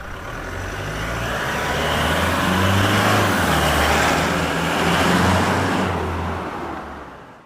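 Toyota Hilux GUN125 fitted with a Ganador sports muffler driving past at low speed. Its 2.4-litre four-cylinder turbodiesel exhaust note grows louder over the first few seconds, holds, then fades away near the end.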